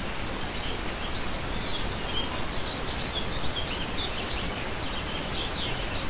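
Birds chirping in short, scattered high notes over a steady hiss of outdoor noise.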